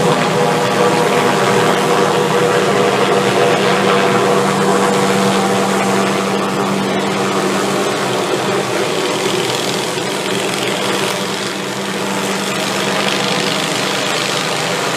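Helicopter running steadily nearby, a continuous engine and rotor sound with a steady hum; it eases off slightly about halfway through.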